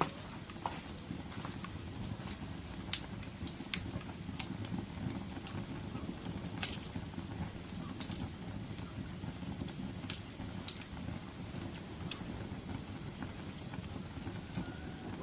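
Wood fire crackling: a steady low rumble of burning with scattered sharp pops and snaps, the loudest about three seconds in and again near seven seconds.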